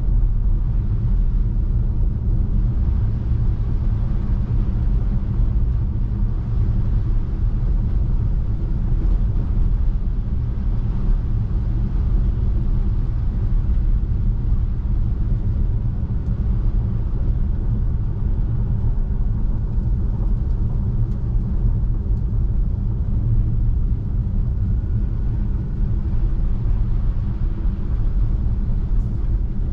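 Steady low rumble of a Tesla Model 3's tyres rolling over a snow-covered road, unchanging throughout.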